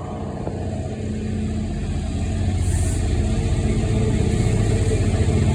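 Class 66 diesel freight locomotive's two-stroke V12 engine running at speed, growing steadily louder as it approaches.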